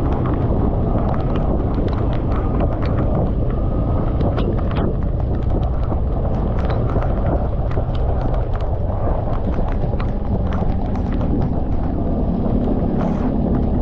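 Motorcycle ride in heavy rain: a steady low rumble of wind and road noise on the microphone, scattered with many sharp clicks of raindrops striking it. Near the end a steady engine hum comes up under the rumble.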